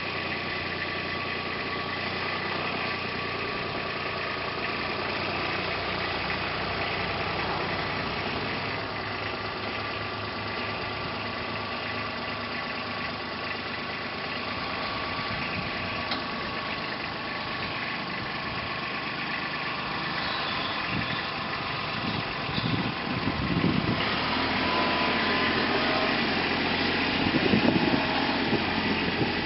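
Vehicle engine idling steadily, turning louder and uneven in the last several seconds.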